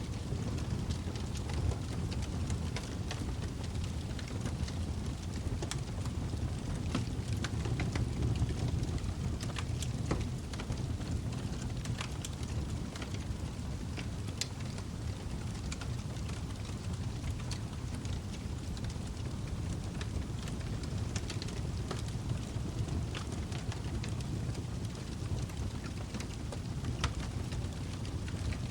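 Log fire burning in a fireplace: a steady low rumble of flames with frequent irregular crackles and pops from the burning wood.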